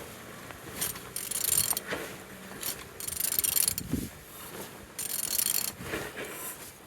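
A ratchet wrench clicking in three strokes about two seconds apart as a Honda D16W5 engine is turned over by hand. The engine turns freely, a sign that it is not seized.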